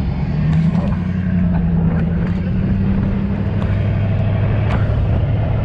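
Steady low mechanical hum, with its pitch dropping partway through and a few light clicks over it.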